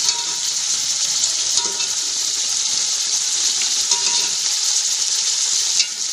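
Chicken pieces sizzling steadily as they brown in hot oil in a pan over medium heat, with a few light clicks.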